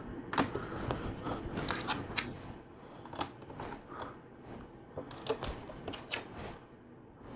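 LEGO plastic pieces handled and pressed onto a build: scattered small plastic clicks and taps, with a cluster of them a little over five seconds in.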